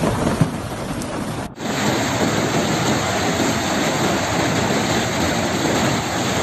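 Heavy rain and storm noise, a dense steady hiss, with one sharp knock about half a second in. The sound briefly drops out about a second and a half in and then carries on slightly louder.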